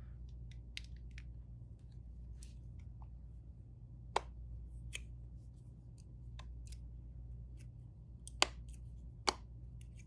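Scattered small clicks and taps of tools and phone parts being handled during a phone repair, with sharper clicks about four seconds in and twice near the end, over a low steady hum.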